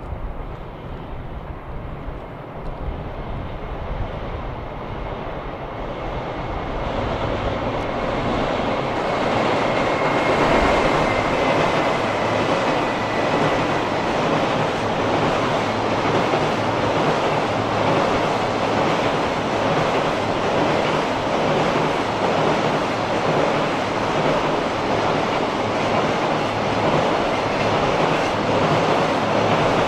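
Freight train of container wagons rolling past close by on a bridge, its wheels rumbling and clattering over the rails. The sound swells to a steady loud rumble about ten seconds in, and a faint high whine shows for a few seconds around then.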